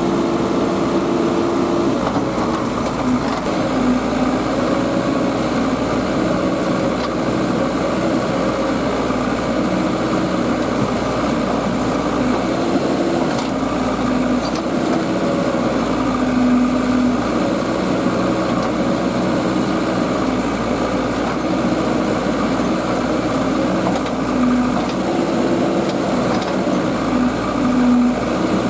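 Diesel engines of a farm tractor and a JCB backhoe loader running steadily, the engine note stepping up and down in pitch every few seconds as the machines work.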